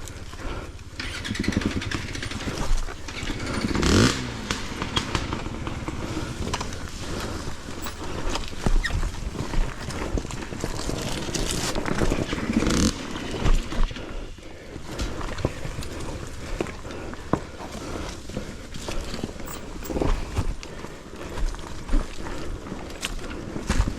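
Dirt bike engine revving up and down over rough ground, with two sharper rises in revs about four seconds in and again about twelve seconds in, amid frequent knocks and clatter from the bike on the rocks.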